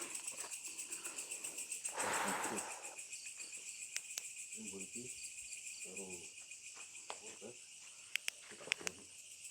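Night chorus of crickets chirping in a steady, fast pulse, with faint low voices murmuring a few times and a brief rustle about two seconds in.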